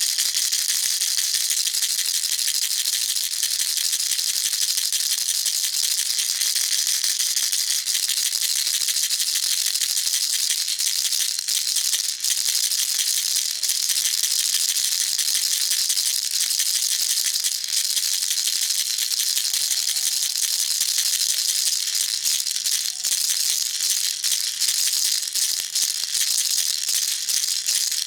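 Baby rattle shaken without pause, a steady, high, dense rattling of many small clicks.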